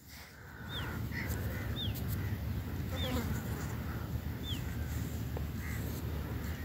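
Birds calling repeatedly, with short high chirps that dip in pitch about once a second and a few softer calls between them, over a steady low rumble.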